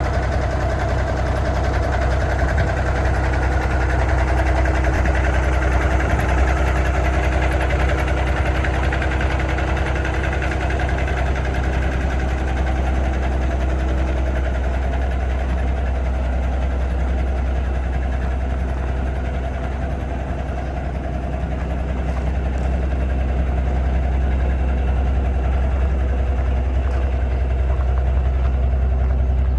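Cummins diesel engine of a 1987 Peterbilt 377 truck idling steadily, briefly a little quieter around twenty seconds in.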